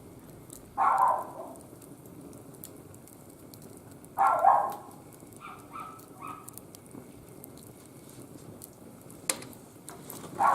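Short, loud animal calls: one about a second in, another at about four seconds followed by three fainter ones, and one more at the end. Underneath, the faint crackle of a wood fire burning in a barbecue grill.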